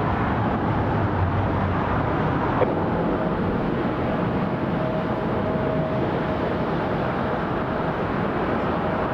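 Steady jet airliner engine noise, with a faint steady whine coming in about three seconds in.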